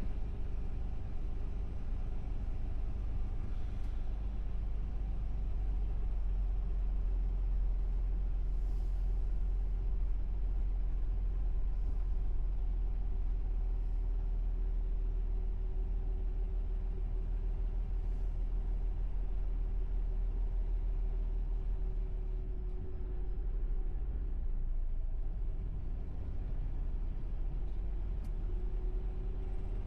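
Truck engine and road noise: a steady low rumble with a faint hum above it.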